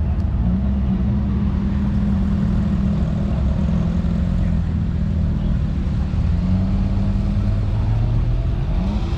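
Car engine running at low revs with a steady low hum that shifts slightly in pitch every few seconds, rising briefly near the end as it picks up revs.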